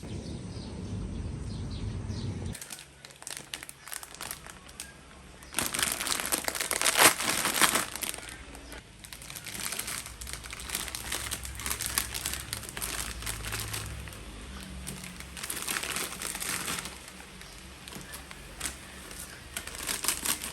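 Crinkling and rustling in several bursts of a few seconds each, after a low rumbling noise over the first two seconds or so.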